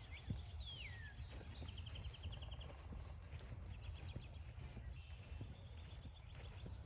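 Footsteps on a forest trail under songbirds calling: a downward-sliding whistle near the start, a quick even trill about two seconds in, and thin high notes later.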